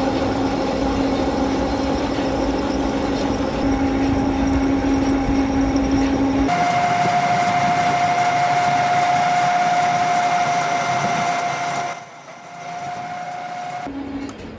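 Factory machinery running with a steady hum. About halfway through it changes abruptly to a different machine with a steady, higher-pitched whine and hiss, which falls in level near the end.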